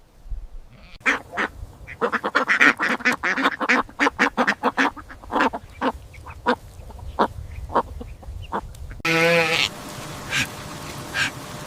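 Ducks quacking, many short calls in quick succession. About nine seconds in the sound cuts abruptly to a single short bleat over a steady hiss.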